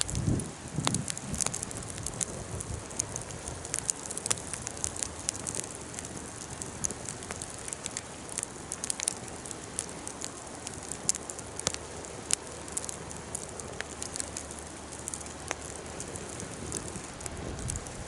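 Wood fire burning, crackling with frequent sharp pops over a soft steady hiss.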